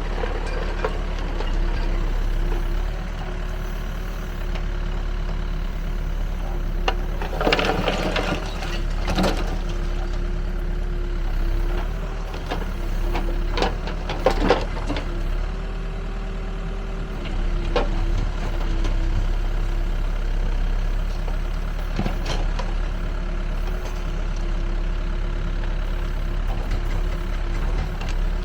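Backhoe loader's diesel engine running steadily, with a constant hum, interrupted by a few loud bursts of knocking and rattling from the machine working.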